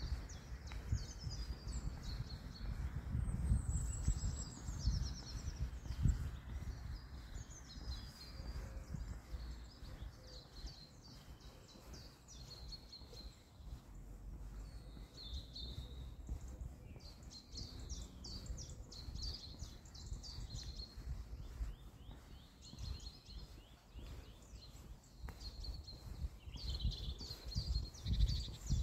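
Several small songbirds chirping and twittering, with many short, high calls throughout, over a low outdoor rumble that is stronger near the start and the end.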